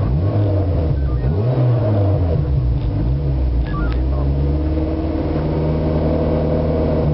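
Race car's engine heard from inside the car while it stands still, blipped up and down a few times in the first two seconds, then idling steadily.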